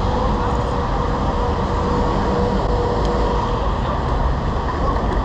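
Wind on the microphone and road noise while cycling in city traffic: a steady, loud rush that is heaviest low down, with a faint steady whine running through it.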